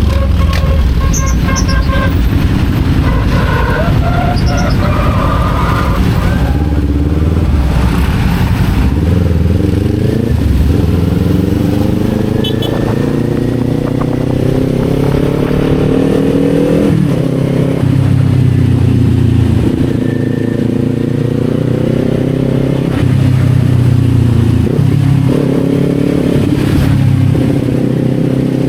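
Kawasaki Z400's parallel-twin engine under way, its revs climbing steadily through a gear and falling sharply at a shift about 17 seconds in, then rising and dropping again through further shifts, over a steady rush of wind.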